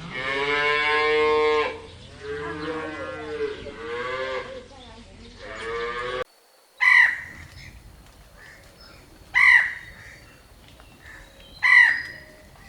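A cow mooing: one long moo, then several shorter moos. After an abrupt cut, an animal gives a loud, short call three times, about two and a half seconds apart.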